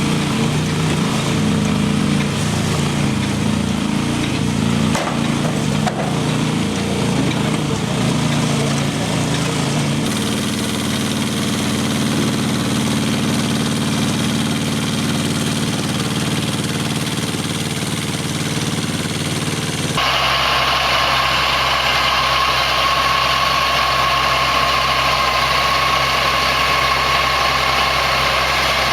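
Heavy farm machinery engines running steadily. The sound changes abruptly about a third of the way in and again about two-thirds in, like a cut between different machines.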